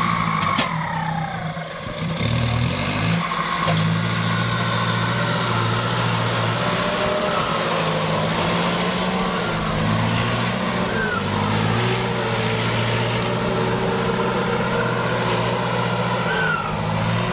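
Kubota farm tractor's diesel engine running steadily under load while ploughing stubble under, its pitch dipping and shifting briefly about two to four seconds in.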